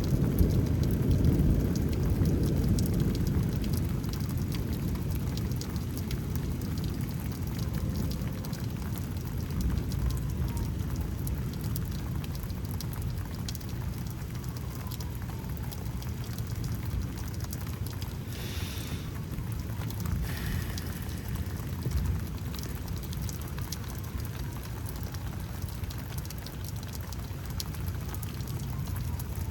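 Steady rain falling, with fine drop ticks and a low thunder rumble that fades away over the first few seconds.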